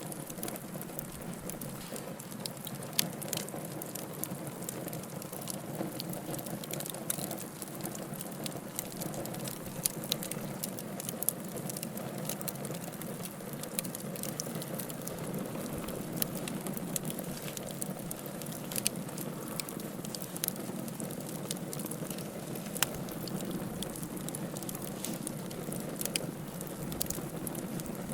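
Logs burning in a fireplace: a steady low rush of flame with frequent irregular crackles and pops, a handful of them sharper and louder.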